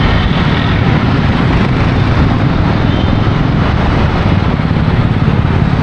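Steady, loud rumble of road vehicle noise, with no distinct events.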